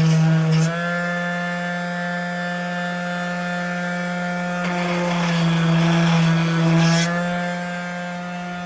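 Electric palm sander running on the edge of a door, its hum steady in pitch and changing in loudness as it is pressed on and eased off, then switched off and winding down near the end.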